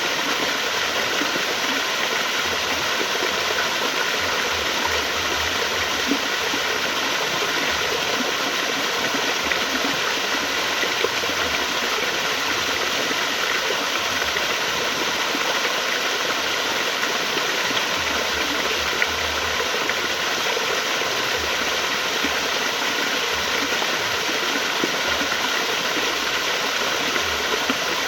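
Flowing water running steadily, a continuous even rush with a few faint ticks.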